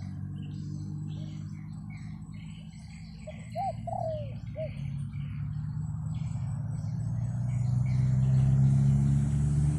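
Wild birds chirping, with a few short cooing notes from a dove about halfway through. A low rumble of wind on the microphone grows louder near the end.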